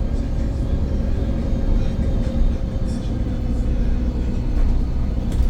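VDL Pulsar single-deck bus under way: steady engine and road rumble, with a faint steady whine that drifts slightly down in pitch.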